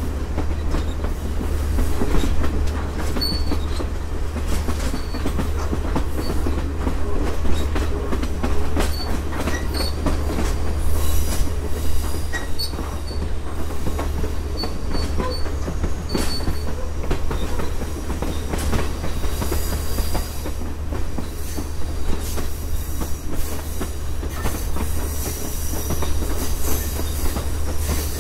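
Passenger train car rolling on rails, heard from the open vestibule: a steady deep rumble with rattling and clicking from the wheels and car. High wheel squeal rings out over it through the second half, as on a curve.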